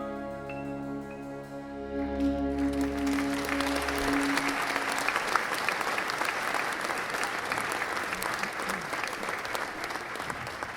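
Band and symphony orchestra holding the song's final chord, with horns, which dies away over the first few seconds. Audience applause breaks out about two seconds in and carries on.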